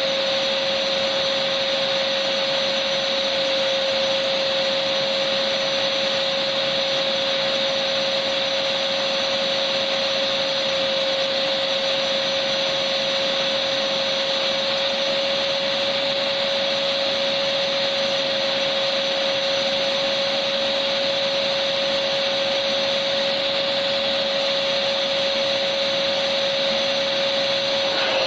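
Electric vacuum cleaner running steadily, a constant motor whine over airflow hiss with no change in pitch.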